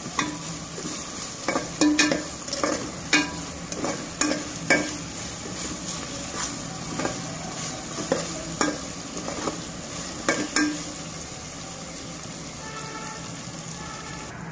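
Chopped onions, green chillies and ginger-garlic paste sizzling in hot oil in a metal pot, with a spatula scraping and knocking against the pan in irregular strokes as it is stirred. The stirring stops about ten seconds in, leaving only the steady sizzle as the onions and paste fry.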